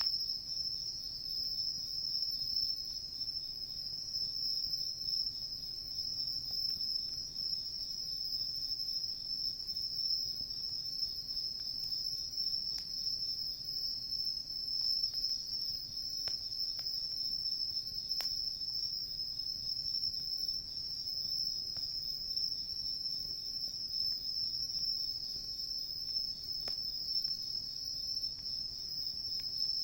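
A steady chorus of crickets, an unbroken high trill, with a few faint crackles from a wood campfire.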